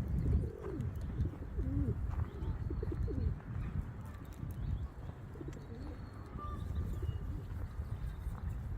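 Birds calling: a series of short, low, curving calls in the first three seconds, then fainter calls, over a steady low rumble.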